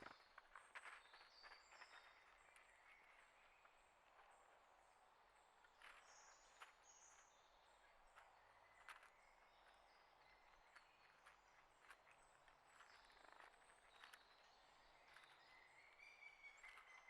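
Faint outdoor ambience: small birds chirping with short high notes, among scattered light clicks and taps. A steady high-pitched trill begins near the end.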